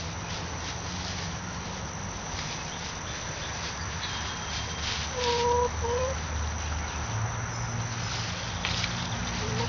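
Backyard hens calling: one drawn-out, even-pitched note about five seconds in, followed at once by a short rising note, over a steady low rumble.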